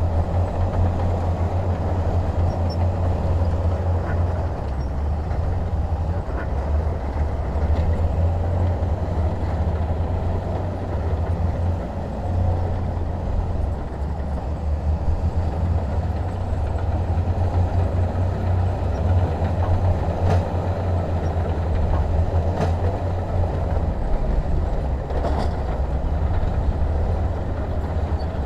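Heavy diesel engine running steadily, a deep low rumble that holds even throughout, with a few faint clicks now and then.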